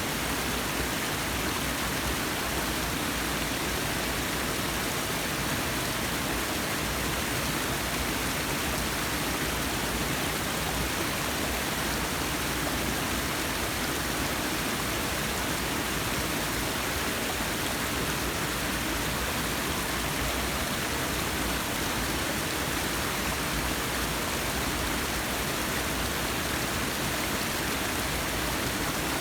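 Forest waterfall: a steady rush of falling water.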